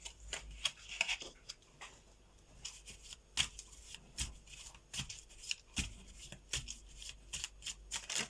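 A deck of tarot cards being shuffled by hand: a string of short, irregular card snaps and rustles.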